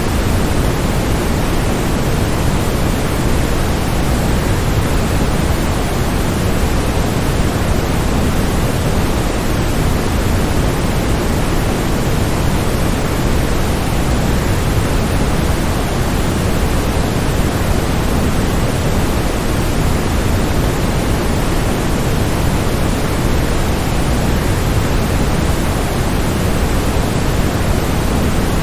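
Waterfall rushing in a steady, unbroken hiss of falling water, heaviest in the low end and even in level throughout.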